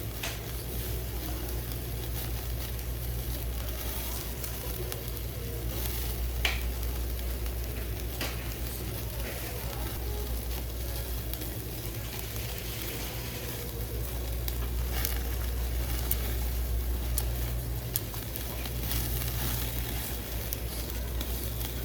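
Food sizzling as it fries in a pan: a steady hiss with a few sharp pops now and then.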